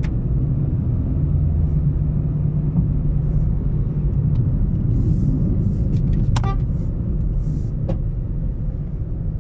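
Small car's engine and road noise heard from inside the cabin as a 2019 Chevrolet Spark with a CVT is driven on a road test after a transmission oil change: a steady low rumble, its engine note rising about two seconds in.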